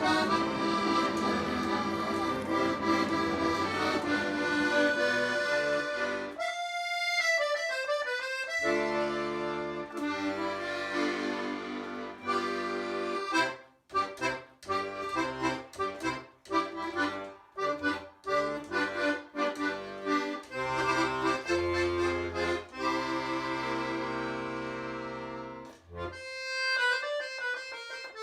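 Accordion music: a tune played over held chords and bass notes, with choppier, separated notes in the middle.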